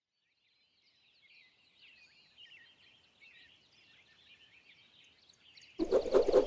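Faint birdsong, many short chirps overlapping. Near the end a much louder sound cuts in suddenly.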